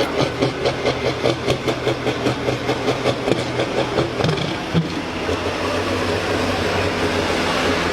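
A pulling tractor's engine running, pulsing rhythmically about four times a second, then settling into a steadier drone from about five seconds in.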